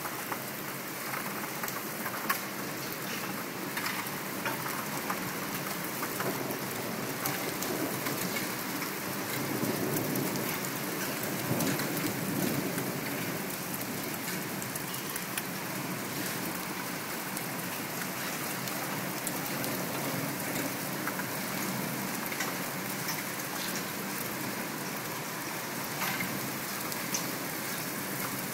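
Steady rain falling during a thunderstorm, with many individual drops ticking. A low rumble of thunder swells about ten seconds in and dies away a few seconds later.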